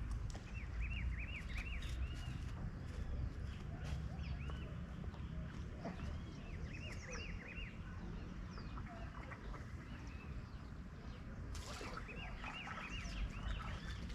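Birds chirping: clusters of short, quick, arched notes repeated on and off, over a steady low rumble.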